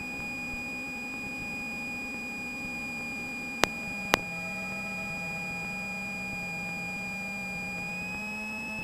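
Steady electronic whine over a low hum in the Cessna 172's cockpit intercom audio, with two sharp clicks about four seconds in. Its pitch dips slightly after the clicks and rises again near the end.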